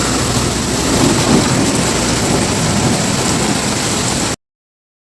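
Hailstorm: hail and heavy rain pelting down in a dense, loud, continuous clatter, cut off abruptly a little over four seconds in.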